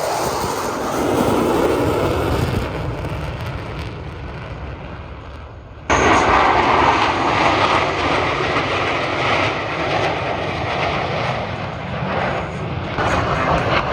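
Aircraft engine noise from planes flying over the air show, fading over the first few seconds. About six seconds in it cuts abruptly to loud aircraft noise again.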